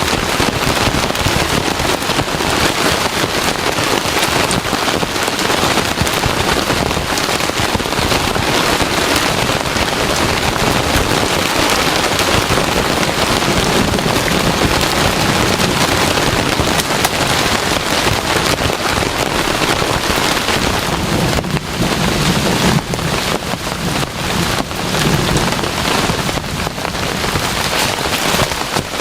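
Heavy rain falling steadily and densely, with a low rumble of thunder swelling and fading in the second half.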